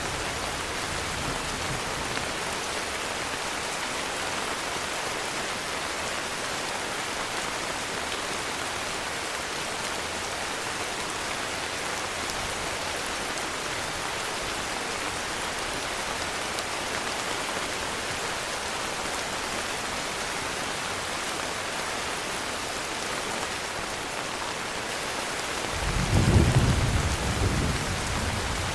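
Heavy rain falling steadily, with a rumble of thunder breaking in near the end.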